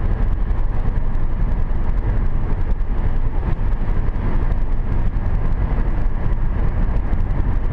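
Steady road noise inside a 2010 Hyundai Sonata cruising at about 80 km/h on a wet road, mostly a low rumble with tyre hiss.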